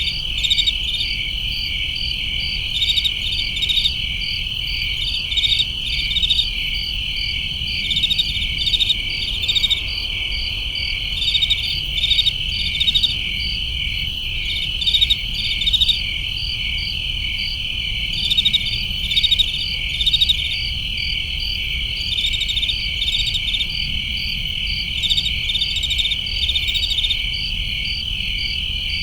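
A chorus of crickets: one steady high trill, with other insects' chirps repeating over it about once a second, above a faint low rumble.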